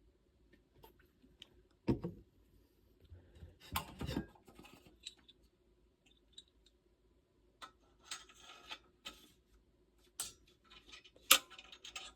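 Metal cornet valve parts being handled during reassembly: scattered clicks, taps and light scraping. About eleven seconds in comes one loud, sharp click as a valve clicks into place, which did not sound good.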